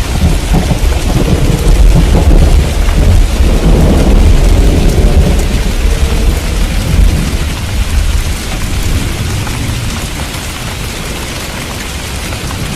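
Heavy rain falling steadily during a thunderstorm, with low rolling thunder that swells in the first half and fades toward the end.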